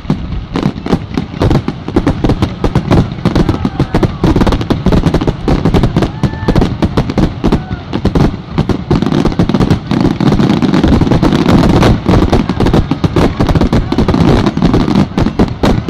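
Fireworks finale barrage: shells bursting in rapid, continuous succession, loud bangs and crackles overlapping with no pause.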